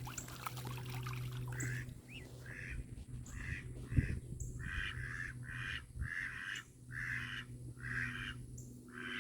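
Mallard ducks quacking in a steady series of short calls, about one every half to two-thirds of a second, starting after the first second and a half, over a steady low hum.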